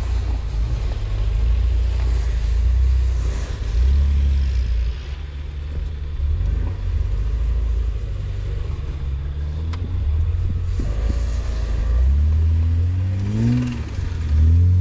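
Engine of an FJ40-based off-road buggy running under load, heard from inside the vehicle: a heavy low rumble that rises and falls with the throttle. The revs climb a couple of times near the end.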